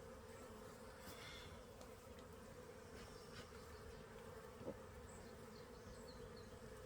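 Faint, steady hum of honey bees flying around a hive.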